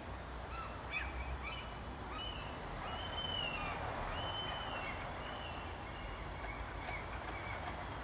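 Birds calling: a run of short, clear calls in the first half, a few longer held notes about three to four seconds in, then fainter calls, over a steady low rumble.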